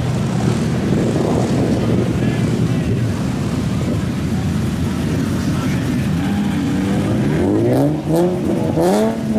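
Car engines and exhausts running steadily, then near the end revved in several quick pulls that rise sharply in pitch.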